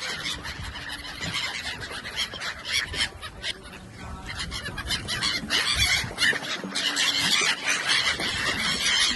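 A large flock of migratory waterbirds calling over one another, with many short shrill calls that grow louder about halfway through.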